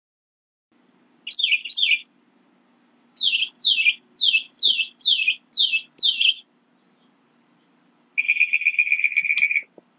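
A songbird singing. It gives a quick doubled pair of notes, then a run of seven clear down-slurred whistles at about three a second, and near the end a fast trill lasting about a second and a half.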